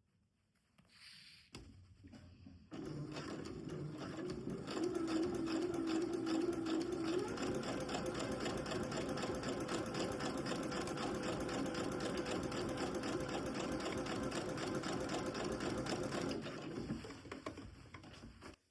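Electric sewing machine stitching in one long run, its needle going in rapid, even strokes. The motor picks up speed a few seconds in, holds steady, then slows and stops near the end. A few soft handling sounds come just before it starts.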